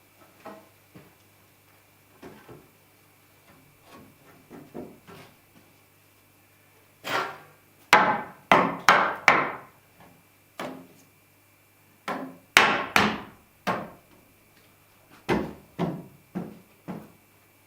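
Hammer striking timber: light taps at first, then three runs of heavy blows.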